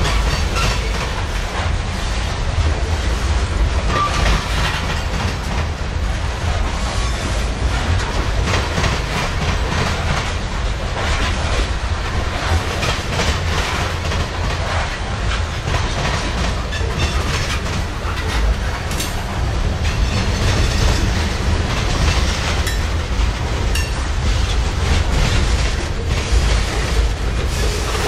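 Freight train of covered hopper cars rolling past at steady speed: a continuous low rumble of steel wheels on rail, with clickety-clack clicks as the wheels cross rail joints.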